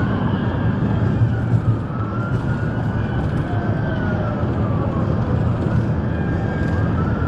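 Police car siren wailing in slow, repeated rising and falling sweeps, heard from inside the moving cruiser over a steady engine and road rumble.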